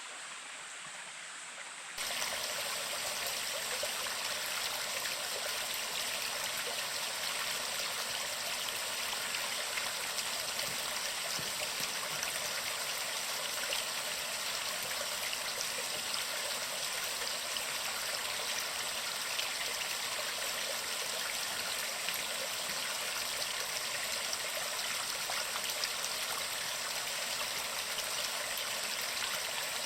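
Steady rush of flowing water, a stream or cascade, which jumps abruptly louder about two seconds in and then holds even.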